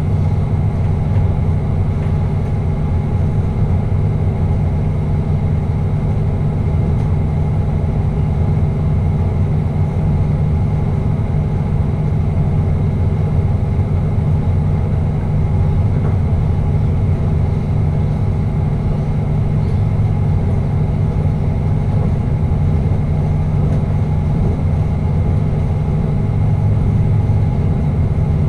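Passenger train running at speed, heard from the driver's cab: a steady low drone of engine and running gear with a few held low tones, unchanging throughout.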